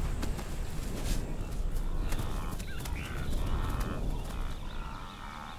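Birds calling in short, wavering phrases from about two seconds in, over a low rumble that is loudest in the first few seconds.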